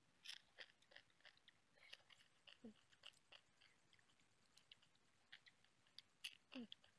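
Close-up crunching and chewing of cooked crab, with sharp crackles of shell being bitten scattered throughout, the loudest a little after the start and about six seconds in. Two short falling sounds, one about two and a half seconds in and one near the end.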